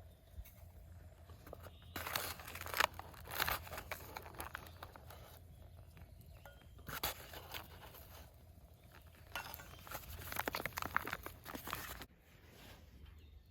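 Rustling and crunching handling noises in several separate bursts, quieter near the end.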